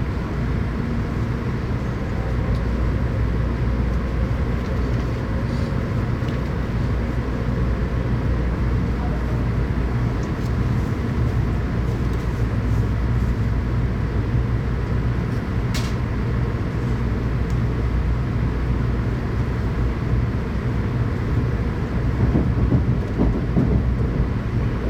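Steady running rumble of a Tokaido Shinkansen train heard from inside the passenger car, with a single sharp click about sixteen seconds in.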